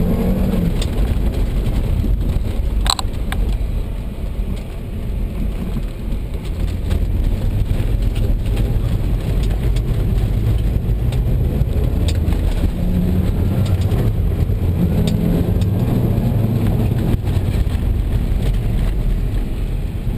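Volvo S60R's turbocharged five-cylinder engine, heard from inside the cabin, revving up and down on a rallycross run over dirt, over a steady rush of tyre and loose-gravel noise. A sharp tick about three seconds in.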